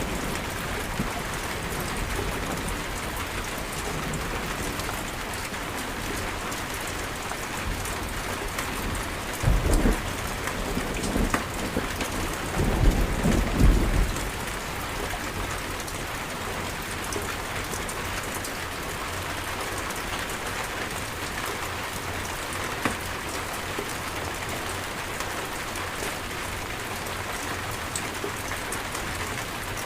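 Steady rain falling, with two short rolls of thunder about ten and thirteen seconds in.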